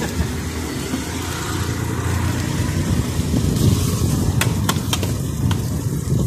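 Raw sliced meat frying on a large hot street-vendor griddle, with a few sharp clacks of a metal spatula and tongs against the pan about four to five seconds in, over a steady low rumble.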